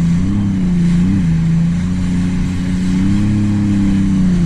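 A 2018 Sea-Doo RXT-X 300 personal watercraft's supercharged three-cylinder engine, fitted with a free-flow exhaust, runs steadily at low speed. It rises slightly in pitch a quarter second in and again about a second in, with a longer gentle rise past three seconds as the throttle is eased on.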